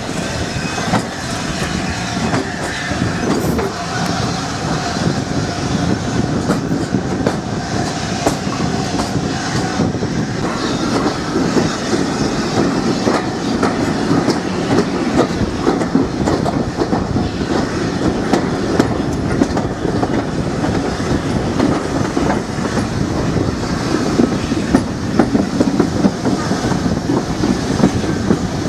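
Heritage passenger train rolling slowly along jointed track, with a steady rumble and wheels clattering over the rail joints, heard from aboard the carriage.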